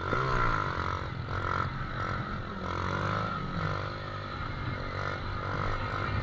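Motorcycle engine revving, its pitch rising and falling several times.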